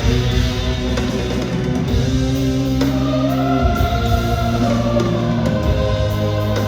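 Rock band instrumental passage: an electric guitar lead with sustained, sliding notes over bass and a backing band, with no singing.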